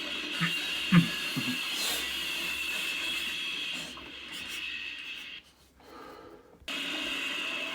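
Outdoor ambience picked up by a trail camera's microphone: a steady high-pitched hiss with a few faint knocks in the first two seconds. The sound drops away about five seconds in and comes back abruptly near the end.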